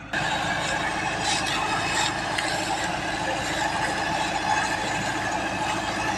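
An engine runs steadily with a mechanical clatter. The sound starts abruptly just after the beginning.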